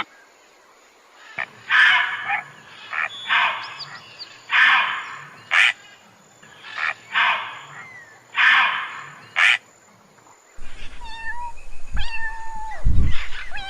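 A cat calling: a run of short, harsh yowls about once a second, then, from about ten and a half seconds in, clearer meows that rise and fall in pitch.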